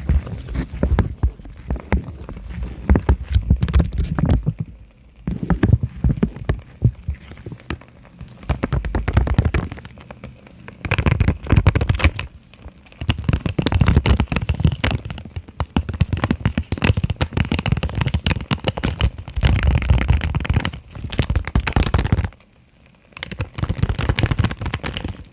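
Fast ASMR tapping and scratching with fingers on small boxes, close to the microphone, in dense bursts with short pauses.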